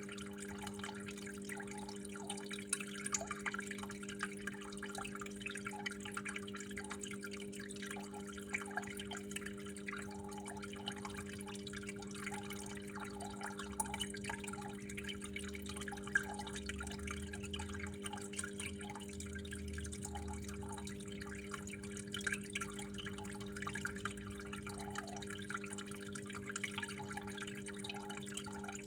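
Water flowing and dripping continuously, with many irregular small drops and splashes, over a steady low hum.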